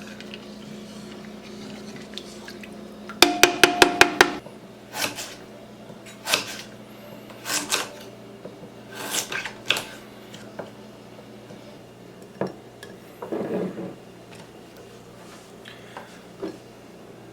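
Kitchen dishes and utensils clinking and clattering. A quick run of about seven sharp, ringing taps comes about three seconds in, followed by scattered single clinks and a short rattle.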